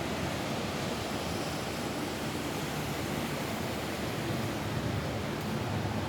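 Steady rain falling on a roof: an even, unbroken hiss with no separate drops standing out.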